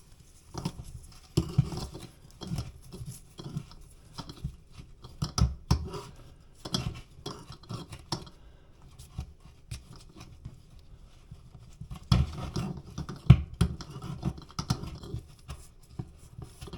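Scissors snipping fiberglass cloth, with irregular clicks and scratches of the cloth being handled.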